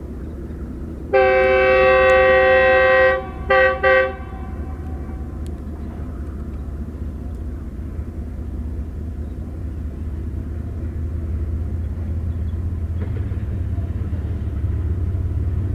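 GEU-40 diesel locomotive sounding its horn: one long blast of about two seconds, then two short toots. Its engine rumbles steadily underneath and grows louder as the train approaches.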